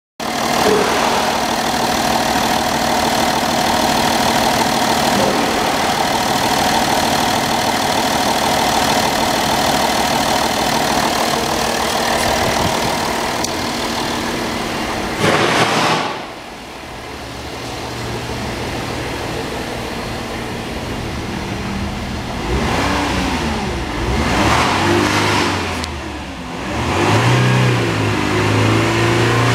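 Audi Q7 3.0 TDI V6 diesel engine (code CASA) running steadily, then dropping to a quieter idle about halfway through. From about 22 seconds in it is revved in several short blips that rise and fall in pitch.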